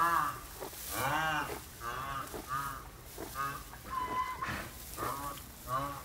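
White rhinoceros calling: a rapid series of short, nasal, honk-like calls, each rising and falling in pitch, about one and a half a second.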